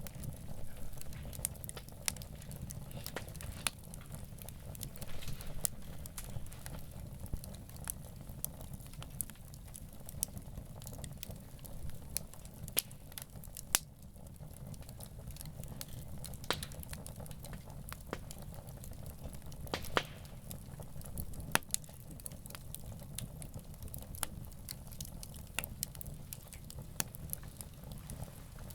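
Wood campfire burning: irregular crackles and sharp pops of the burning wood over a steady low rumble of the flames.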